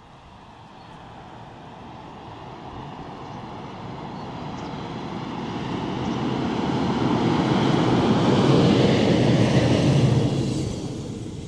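Regional electric passenger train approaching and passing: the rumble of its wheels on the rails grows steadily over several seconds, is loudest about nine to ten seconds in, then drops away as it goes by.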